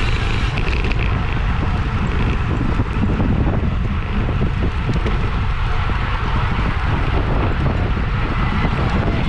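Wind buffeting the microphone of a bicycle racer riding at speed in a criterium: a loud, steady rumble with a rushing hiss above it.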